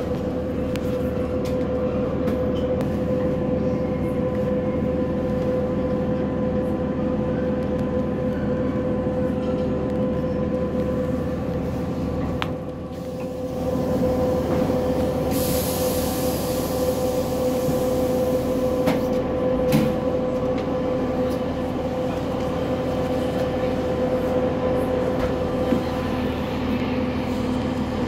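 Inside a diesel passenger train: a steady drone with a held whining tone. Partway through, a few seconds of hiss come in, and a few faint clicks are heard.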